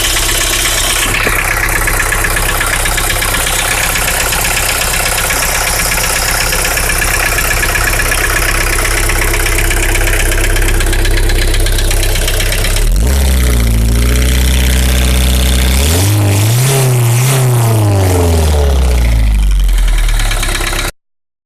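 Nissan CD17 four-cylinder diesel engine idling with the knock that its owner cannot trace, since injectors, connecting-rod and main bearings, the piston pin and valve-to-piston contact have been ruled out. About 13 seconds in the engine is revved up and down a couple of times, and the sound cuts off shortly before the end.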